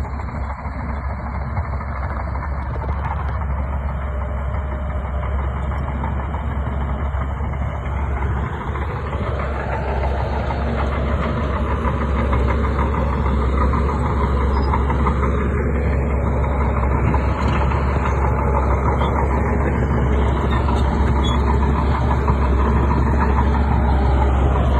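Shantui bulldozer's diesel engine running steadily while working, growing louder about ten seconds in.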